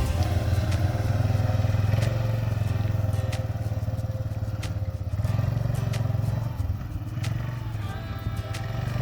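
Four-wheeler (ATV) engine running steadily, with occasional clicks and knocks over it.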